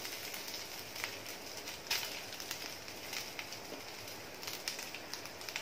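Freshly grated coconut frying in hot ghee in a nonstick pan: a quiet steady sizzle with scattered crackles.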